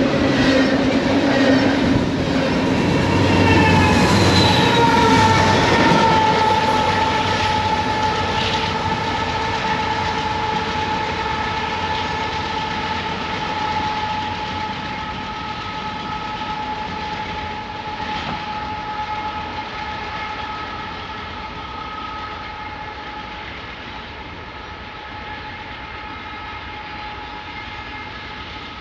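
Double-stack container freight train's last cars rolling past, then the rumble and clatter of its wheels fading steadily as the train pulls away. Several long high tones ring over the fading noise, dropping slightly in pitch over the first few seconds and then holding until about three-quarters through.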